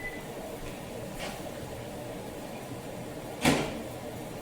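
A single sharp clunk, like a kitchen door or cupboard shutting, about three and a half seconds in, over the steady hum of a running fan.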